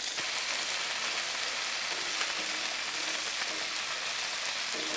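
Chicken wings sizzling in freshly added oil on a Blackstone flat-top griddle: a steady frying hiss as the skin crisps.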